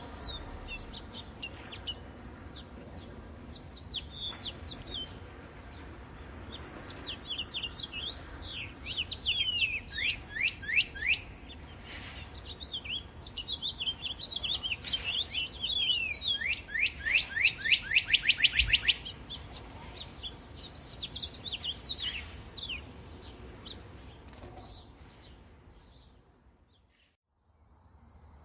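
Small songbirds chirping and twittering, with fast runs of down-slurred notes, loudest in two bursts midway. The sound fades out near the end.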